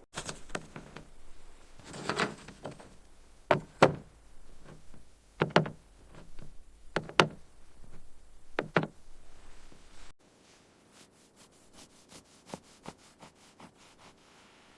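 Sharp knocks or thumps, mostly in pairs about every one and a half to two seconds, over a low steady rumble. About ten seconds in, the sound cuts abruptly to faint, quick ticking.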